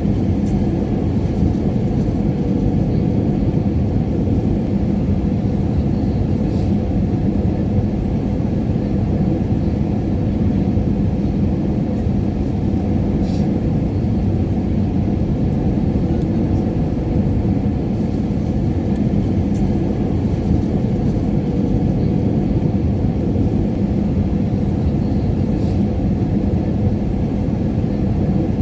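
Airliner cabin noise in flight: a steady low rumble with a constant hum, and a few faint ticks.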